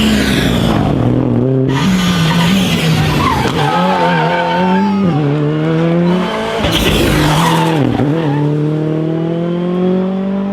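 Rally car engine revving hard on a special stage. The pitch drops at gear changes and lifts, and climbs steadily as it accelerates near the end. Hissing bursts of tyre noise as the car slides come in the first second or so and again around two-thirds of the way through.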